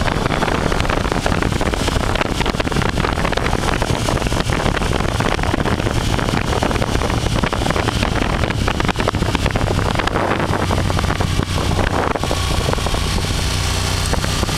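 Engine drone with heavy wind noise on the microphone, steady throughout, with a low hum under a dense rush of noise.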